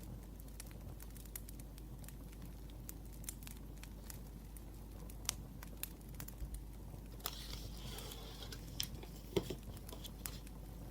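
Wood fire crackling, with scattered sharp pops throughout. A brief rustle of paper comes about seven seconds in.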